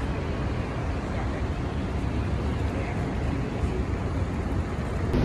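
Steady low rumbling street noise, like city traffic, with no distinct events.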